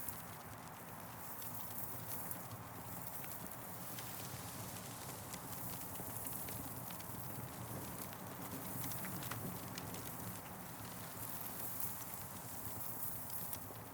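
Campfire burning: wood crackling with many small irregular pops over a steady soft hiss.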